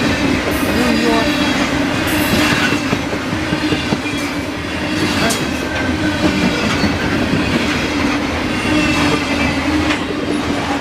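Freight cars of a grain train rolling past close by: a steady rumble of steel wheels on rail, with a few sharp clicks and a thin, high wheel squeal over it.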